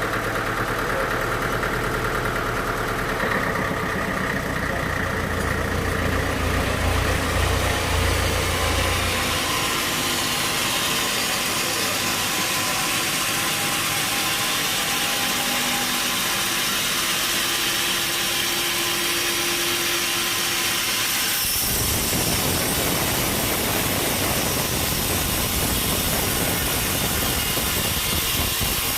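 Sawmill machinery running: a steady engine drone with a few held tones. A low hum drops out about ten seconds in, and about twenty-one seconds in the sound turns abruptly rougher and noisier.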